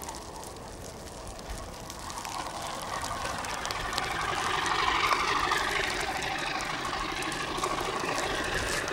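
Train approaching slowly through deep snow, its noise growing louder and peaking about five seconds in.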